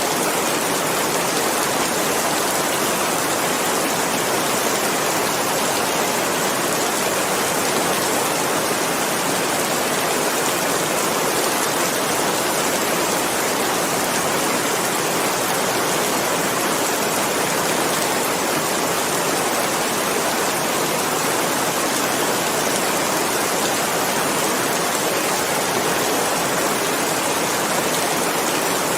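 Steady, heavy rain falling, an even unbroken hiss of many drops with no single drops or thunder standing out.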